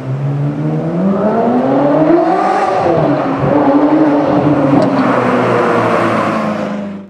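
Ferrari 360's V8 engine revving as the car accelerates: its pitch climbs for about two seconds, falls back, holds, then rises again. The sound cuts off suddenly at the end.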